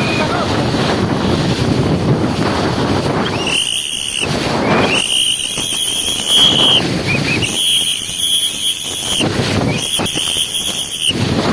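Strong gusty wind buffeting the microphone, over choppy lake water. From about three and a half seconds in, a high-pitched steady sound comes and goes five times, each lasting about a second.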